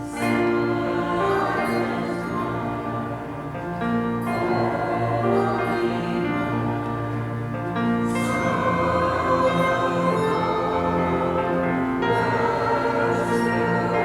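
Choir singing a slow piece in long, held chords.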